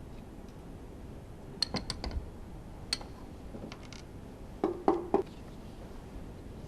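Metal parts and tools clinking during the teardown of a Honda V10 Formula One engine. A quick cluster of light clicks comes about one and a half to two seconds in, then a single click near three seconds. Just before five seconds in there are three heavier knocks, each with a short metallic ring.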